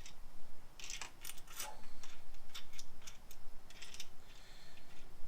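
Bolts and small metal parts clicking and clinking as they are handled, a string of irregular sharp taps.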